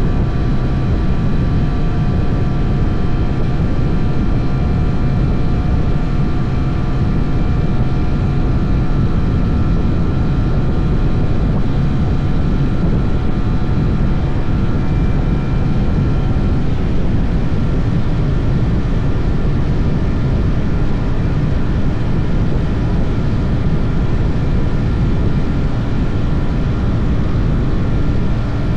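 SYM NH 180 motorcycle running steadily under way, a constant engine note over a heavy low rush of wind and road noise.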